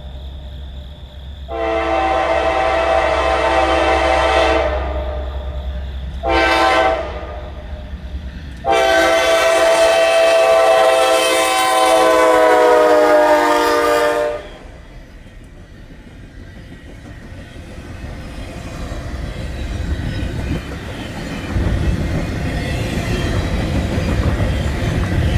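Norfolk Southern locomotive air horn sounding a chord of several tones: a long blast, a short one, then a longer blast. This closes the long-long-short-long grade-crossing signal. The horn then stops, and the train's low rumble and wheel clatter grow louder as it draws near and passes.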